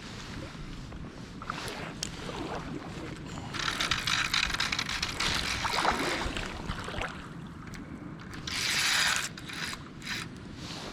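Fishing reel clicking and ratcheting as line is worked during a fight with a steelhead, with two bursts of rushing noise: one about a third of the way in and one shorter near the end.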